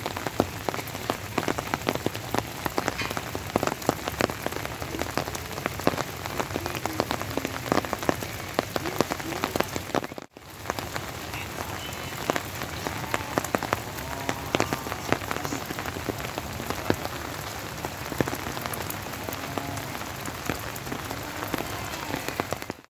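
Rain falling steadily, a dense patter of drops striking a nearby surface; it breaks off for an instant about ten seconds in.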